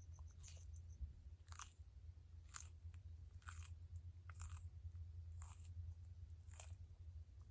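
A tortoise biting into plant food, with a crisp crunch about once a second.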